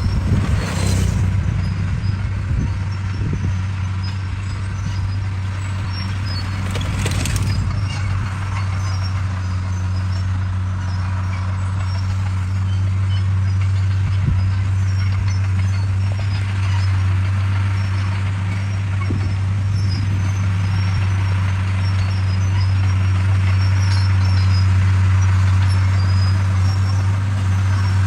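Komatsu D41 bulldozer's diesel engine running steadily with a strong low drone. Two brief rushing noises come through, about a second in and again about seven seconds in.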